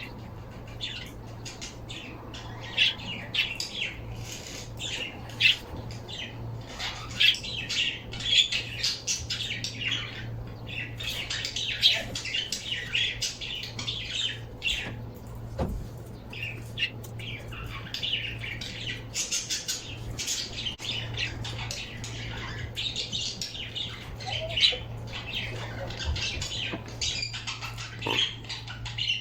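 Pet birds chirping and squawking over and over in quick, short, high-pitched calls, with a steady low hum underneath.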